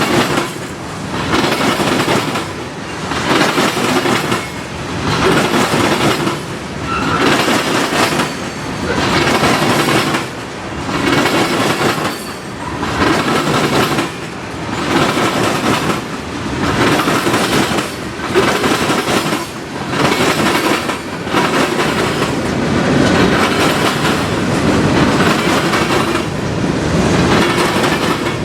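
A long train passing close by: its cars roll past with a steady clickety-clack of wheels on the rails, swelling and easing in a regular rhythm about every two seconds as each car goes by.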